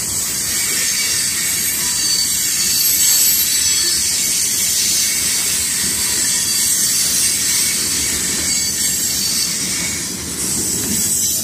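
Freight train of covered hopper cars rolling past close by: a steady rumble of steel wheels on rail with a high-pitched wheel squeal over it.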